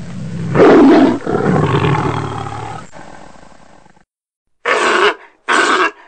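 A large animal's long, loud call that dies away over about four seconds, followed by two short calls near the end.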